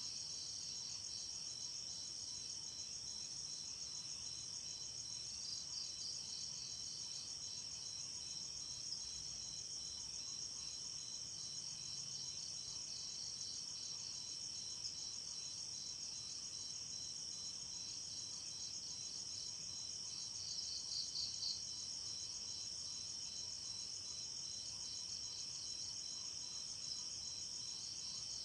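Night chorus of crickets: several insects trilling steadily at a high pitch, overlapping one another. One call swells into a louder run of fast chirps about two-thirds of the way through.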